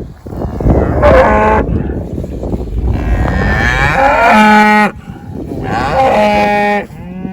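Cattle mooing loudly: four calls in a row, the second one long and drawn out.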